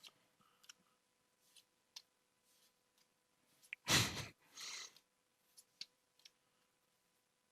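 Faint clicks and soft rustles of Pokémon trading cards being handled and flipped through, with one louder brief rush of noise about four seconds in and a softer hiss right after it.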